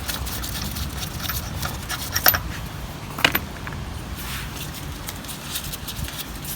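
Light metallic clinks and small rattles of wheel nuts and tools being handled while the wheel nuts are taken off; a few sharp clinks stand out, the clearest about two and three seconds in.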